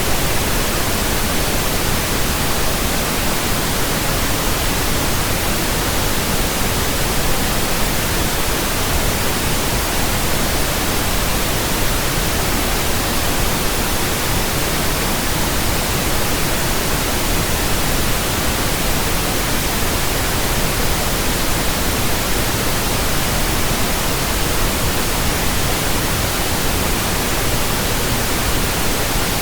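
Pink noise from a pink noise generator: a steady, even hiss across all pitches with no breaks, used as a burn-in signal for new speakers and earphones.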